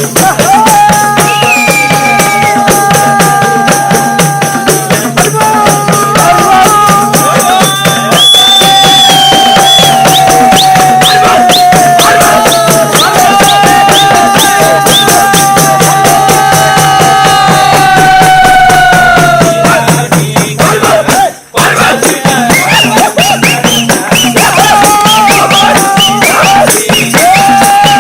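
Nepali folk music: a melody of long, held notes that sometimes slide down at their ends, over a fast, dense jingling percussion rhythm like a tambourine. The music breaks off for an instant about two-thirds of the way in, then carries on.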